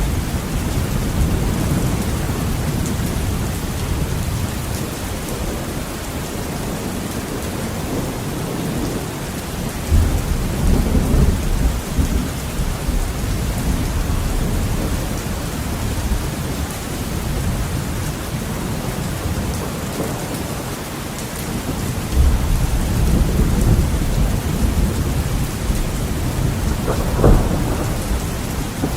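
Heavy rain pattering on a window, with rolling thunder rumbling low twice, about a third of the way in and again past two thirds, and a short sharp crack near the end.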